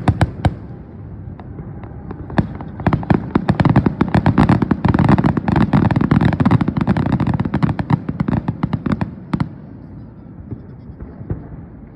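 Fireworks display: a rapid barrage of sharp bangs and crackles starting about two seconds in, thinning to a few scattered pops after about nine seconds.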